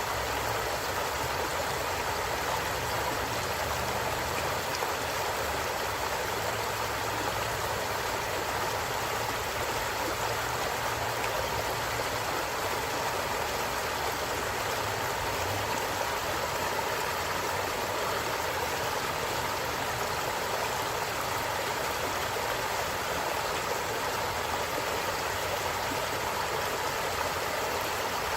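Stream flowing steadily: a continuous, even rush of running water.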